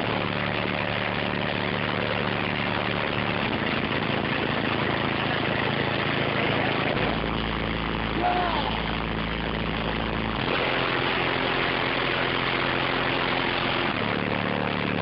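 Car audio subwoofers playing loud, steady low bass notes, heavily distorted by the microphone. The notes change about seven seconds in and change back about three seconds later.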